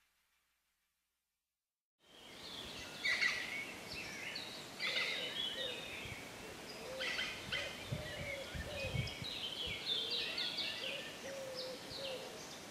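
Silent for about two seconds, then woodland ambience with several birds singing: many quick high chirps and trills over a lower, wavering call that repeats throughout.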